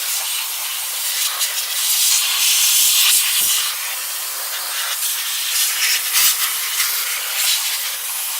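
Aerosol can of tire-foam cleaner spraying in a long, steady hiss that swells and dips a little, as the last of the can is sprayed over an engine bay.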